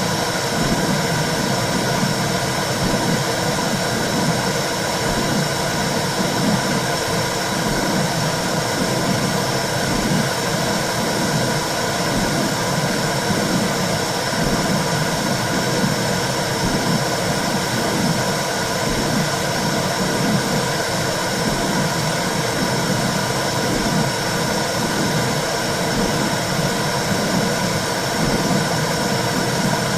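Womb sound for soothing a baby: a steady, low whooshing rush with a slow, regular pulse, over a constant hum.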